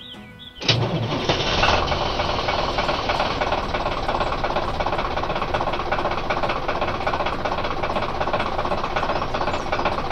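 A heavy construction machine's engine starts abruptly about half a second in and runs steadily with a fast rattling beat.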